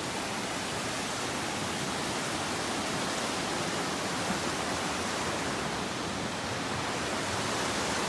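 Steady, even rush of a large waterfall, Kanba Falls, with no breaks or changes.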